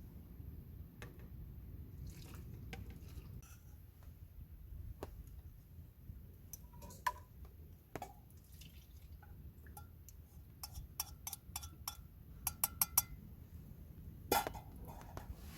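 Small clicks and clinks of glass and tableware, with a quick run of light taps toward the end and one sharper knock shortly before the end, over a low steady rumble.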